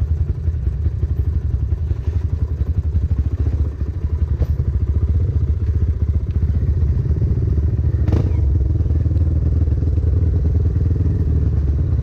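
Trail motorcycle engine running steadily at low revs, with the clatter of the bike over rough ground and a sharp knock about eight seconds in.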